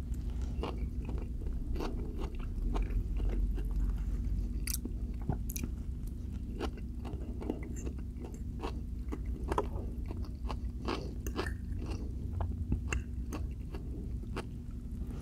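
Close-miked chewing and wet mouth clicks of someone eating, irregular, a few a second, over a steady low hum.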